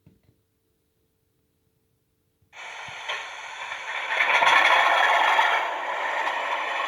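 Bachmann OO gauge class 37 DCC sound decoder playing its English Electric diesel engine sound through the model's small speaker: it cuts in suddenly about two and a half seconds in after near silence, swells louder a little later, then settles to a steady, rattly running.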